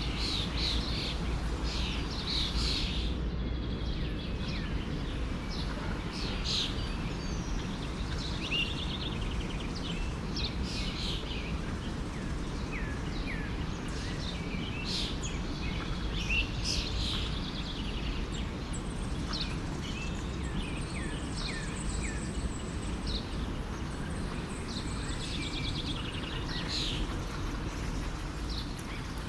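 Many small birds chirping and trilling in quick, overlapping calls over the low, steady rush of a forest stream.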